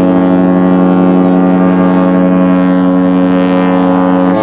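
Cruise ship MSC Preziosa's horn sounding one long, steady, deep blast that drops away near the end, leaving a lower tone trailing.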